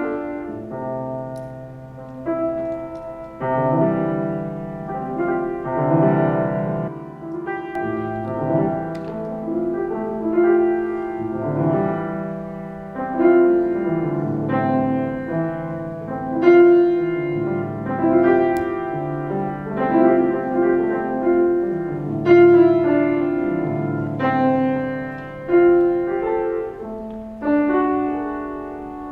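Solo piano music: slow chords, each held for a second or two before the next.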